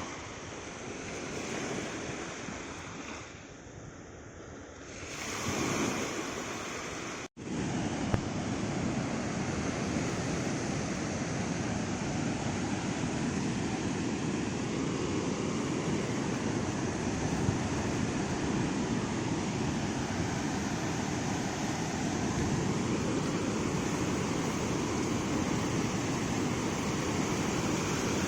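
Ocean waves breaking on a beach, swelling and falling away twice in the first few seconds. After an abrupt cut about seven seconds in, a steady, unbroken wash of surf with some wind.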